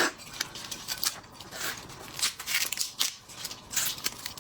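Shellfish shells crackling and snapping in irregular sharp clicks as the seafood is peeled and broken apart by hand.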